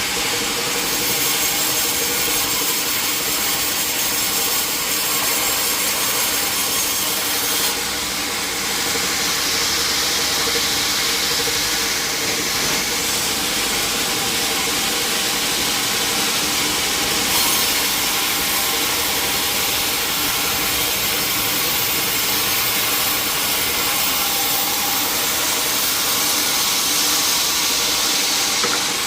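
Sawmill saw running continuously through a log, a steady loud hiss of cutting over a faint machine hum.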